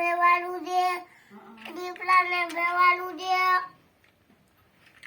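A child's high voice singing two short phrases of held notes, stopping a little before four seconds in.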